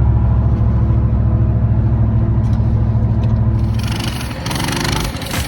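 Vehicle engine and road noise: a loud, steady low drone. About four seconds in, a brighter, hissier sound cuts in and the drone fades.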